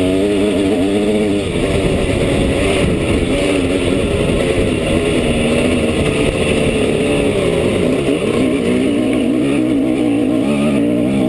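Simson S51 Enduro's single-cylinder two-stroke engine running under load while riding, its revs rising and falling with the throttle. Rough noise in the low end partly drowns the engine for a few seconds after the start.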